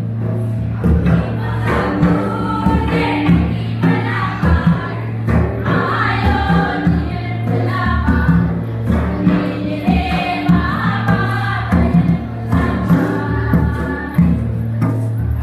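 Group of voices singing a Karam folk song over steady drumming and a sustained low drone; the singing fades out about two seconds before the end while the drums go on.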